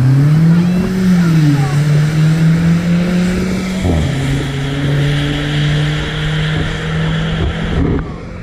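Race car engine under power, its pitch rising and falling, then climbing steadily before dropping sharply about four seconds in and holding steady after.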